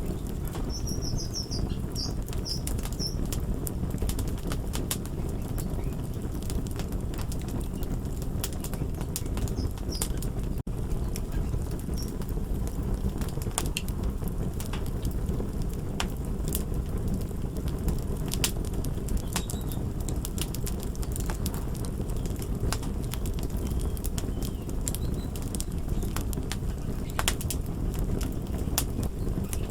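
Crackling fire: a steady low rumble with scattered sharp crackles and pops.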